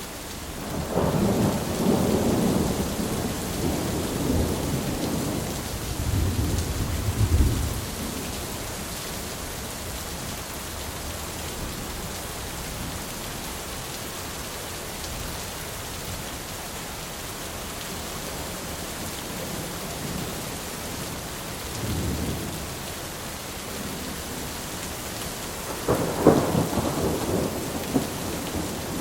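Steady heavy rain with rolling thunder: a long rumble starting about a second in and fading by about 8 s, a softer roll near 22 s, and a sharper crack and rumble about 26 s in.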